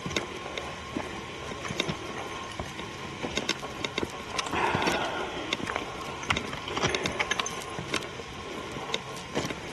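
Footsteps and rustling of someone hiking on a forest trail: irregular scuffs and clicks, with a denser stretch of rustling about halfway through.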